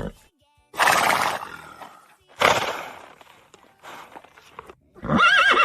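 A horse neighing: a whinny with a wavering, shaking pitch about five seconds in, after two short rushing, breathy bursts of noise.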